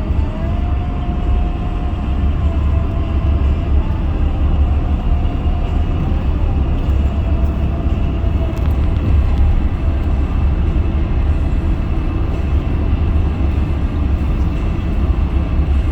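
Steady road noise from inside a moving car: a heavy low rumble with tyre and wind hiss, plus a faint wavering whine.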